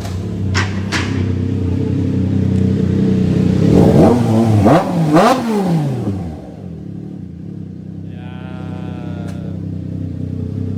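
Triumph Trident 660's three-cylinder engine running through an aftermarket full exhaust system, blipped in a couple of quick revs about four seconds in, then settling back to a steady idle.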